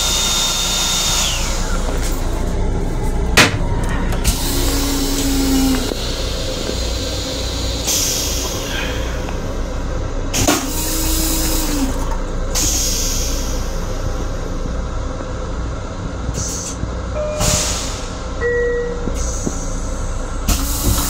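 Running noise of a Long Island Rail Road M7 electric railcar heard inside its small restroom: a steady low rumble with several short hisses of air and a few brief low hums.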